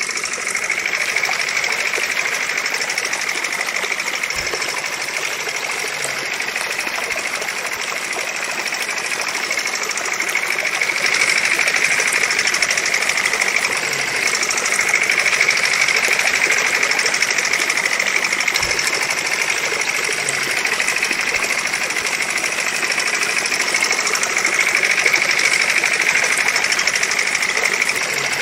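Mini diesel engine running steadily, a thin, high-pitched clatter with little low rumble.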